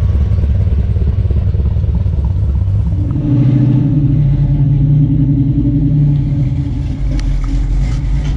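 A loud car engine running, its note changing about three seconds in.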